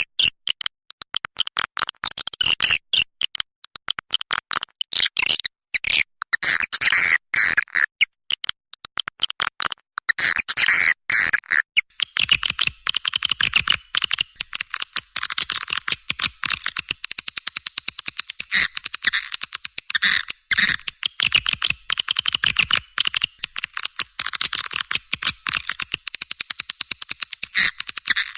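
Swiftlet lure recording: many swiftlets chirping and twittering in a dense, rapid chatter of high calls, almost continuous from about ten seconds in.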